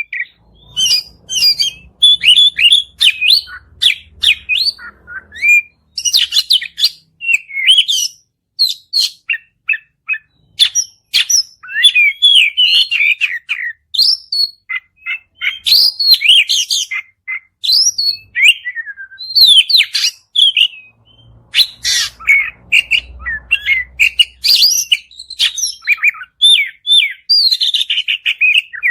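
Oriental magpie-robin (kacer) singing a long, varied song in full voice: quick phrases of clear whistles, rising and falling glides and harsh chattering notes, broken by short pauses.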